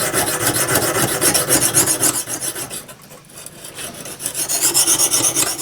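Oiled Lansky sharpening stone stroked along the steel edge of a saw blade: a steady gritty scraping that dips briefly about three seconds in.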